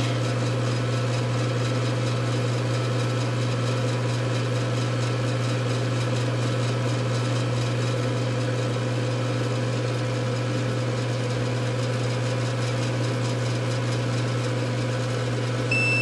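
Steady hum of running electrical equipment, with a short high electronic beep at the very end.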